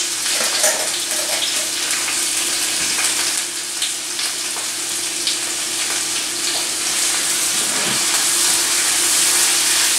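Sliced onions sizzling in hot coconut oil in a frying pan, stirred with a spatula. A steady low hum runs underneath.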